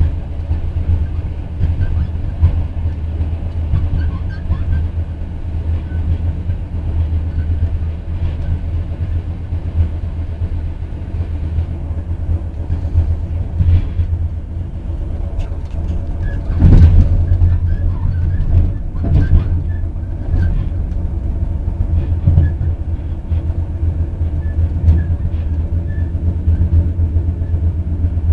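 Train running on the rails, heard from on board: a steady low rumble with scattered knocks and clatter, swelling louder for a moment a little past halfway.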